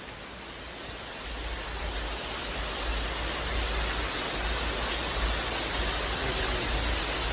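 Waterfall rushing: a steady wash of falling water with a deep low rumble, swelling up over the first couple of seconds and then holding.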